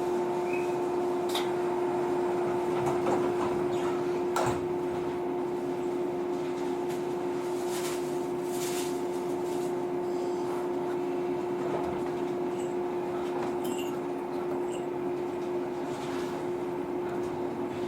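Interior sound of a JR 115 series electric train car standing at a station: a steady electrical hum, with a few sharp knocks about a second in and again a few seconds later as the sliding doors close. Near the end a faint rising tone comes in as the train begins to pull away.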